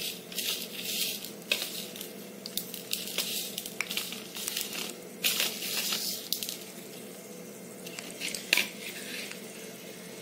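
A dried red chilli frying in hot tempering oil in a small pan: irregular sizzling and spitting crackles that come and go, with a few sharp clicks.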